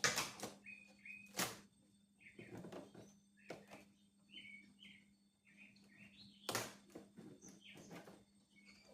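Several sharp knocks and clatters of hand tools and plastic trim being handled while the wiper cowl is taken apart, the loudest at the start, about a second and a half in, and about six and a half seconds in. Short high chirps are heard between them.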